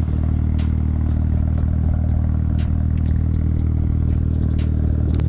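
A car engine idling steadily close by, with scattered light clicks over it.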